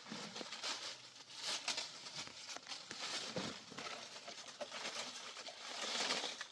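Continuous rustling and crinkling with many small crackles, starting and stopping abruptly.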